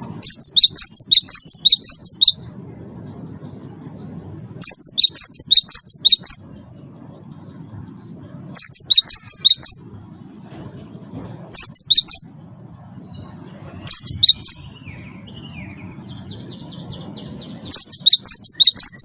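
Cinereous tit (gelatik batu) singing: six loud bursts of rapid, sharp, high notes, each lasting one to two seconds, with pauses of a few seconds between them. A fainter buzzy phrase comes between the last two bursts, over a low background rumble.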